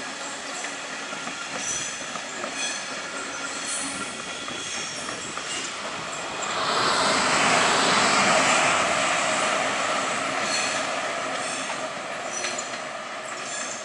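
Train rolling through a railway station, its wheels clicking at intervals over rail joints. The rushing noise swells about halfway through as it passes closest, then fades.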